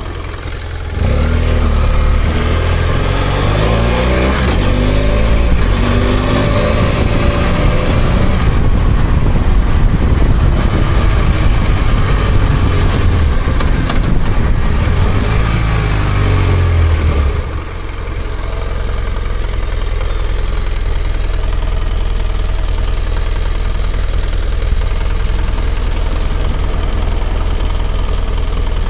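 BMW F800GS parallel-twin engine pulling away through the gears, its pitch climbing in steps, then revving up and down. About seventeen seconds in the revs drop off and a steady low hum carries on.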